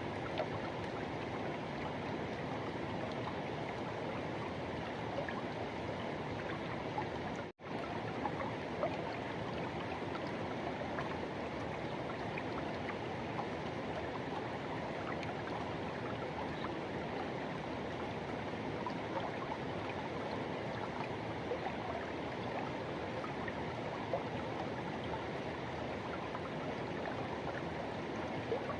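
Forest river water rushing over its bed, a steady even noise. It cuts out for an instant about seven and a half seconds in.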